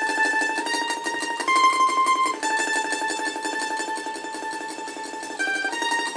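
Mandolin playing a slow melody in tremolo: each held note is sustained by rapid picking. The line moves up by small steps, comes back down, dips briefly to a lower note near the end and rises again.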